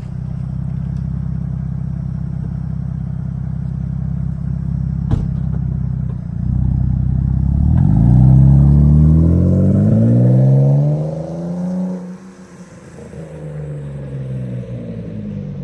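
BMW 525i straight-six exhaust through a Jones turbine muffler resonator: a steady low idle, then from about six seconds in the engine note rises as the car pulls away. Around twelve seconds it drops off and runs quieter as the car passes. One sharp click about five seconds in.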